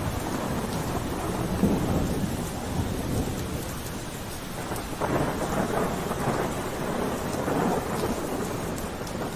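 Steady rain falling, with rolling thunder rumbling through it and swelling about two seconds in and again from about five seconds.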